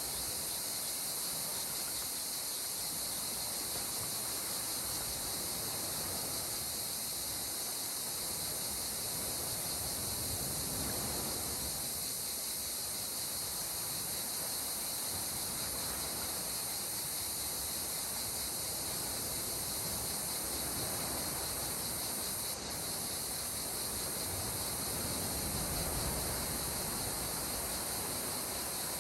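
Calm sea water gently washing in, swelling a little about a third of the way in and again near the end, under a steady high-pitched hiss.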